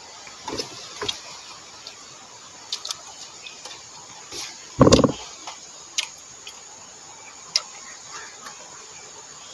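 Close-up eating sounds: scattered short mouth clicks and smacks while chewing, with one louder knock or crunch about five seconds in.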